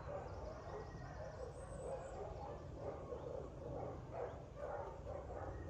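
Many kennel dogs barking, a continuous jumble of overlapping barks with no pause, over a steady low rumble.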